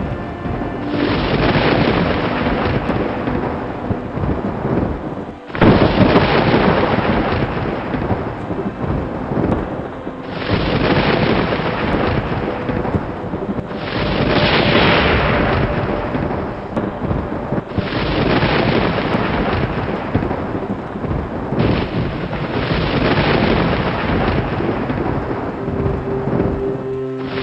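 Thunderstorm: rolling thunder rumbling over steady heavy rain. The sound shifts abruptly every four to five seconds, with a short dip about five seconds in.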